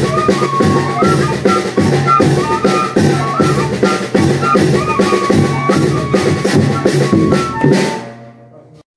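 Banda de pífano playing: a fife melody over a steady beat of bass drum and snare, the music fading out about eight seconds in.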